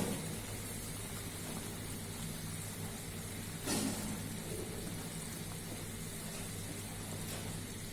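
Pan of spinach and carp curry simmering on the stove: a low steady hiss with a steady hum beneath it, and one short louder noise about three and a half seconds in.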